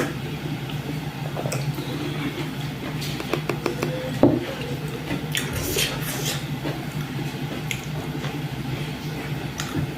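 Eating dhido and chicken curry by hand from a plate: soft squishy sounds with small scattered clicks and one sharper knock about four seconds in, over a steady low hum.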